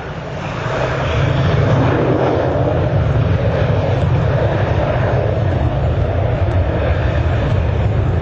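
Military jet fighter engines, loud and steady, with a deep rumble under a broad rushing noise that swells slightly about a second in and then holds.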